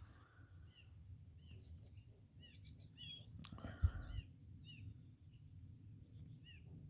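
Small songbirds chirping at a feeder, a string of short repeated chirps over a low background rumble, with a single thump about four seconds in.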